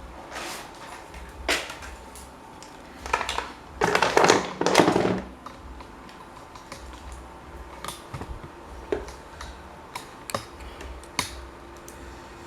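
Scattered clicks and knocks of small parts and tools being handled, with a louder stretch of scraping or rubbing about four seconds in.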